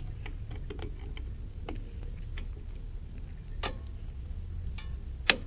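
Light metallic clicks and taps of drum brake shoe hardware being fitted by hand, with a sharper, louder click about five seconds in, over a steady low hum.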